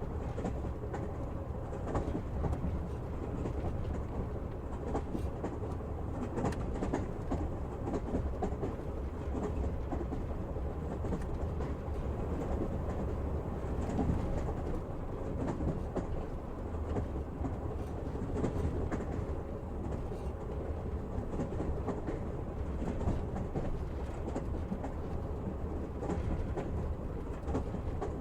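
Train wheels rolling on the rails with a steady low rumble and irregular clicks and knocks from the track, heard from inside a moving passenger train.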